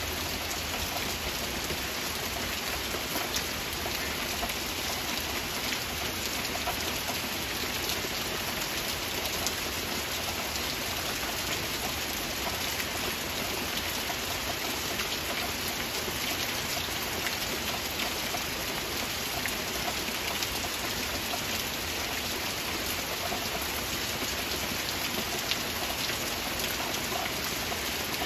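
Heavy rain falling steadily: an even hiss flecked with the fine ticks of countless single drops.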